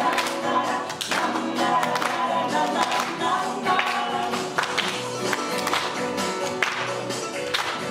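A folk ensemble playing: plucked string instruments picking out a tune over sustained notes, with singing.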